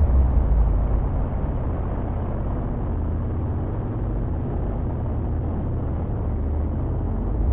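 Loud, muffled low rumble of a drag-racing funny car's engine under power.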